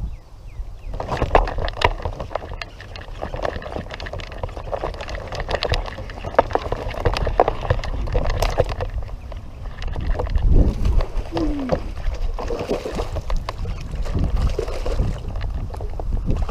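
Water splashing and sloshing around a small boat, with many small knocks and rustles.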